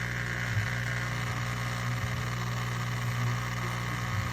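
Café Affetto automatic espresso machine running with a steady electric buzz, then cutting off suddenly near the end.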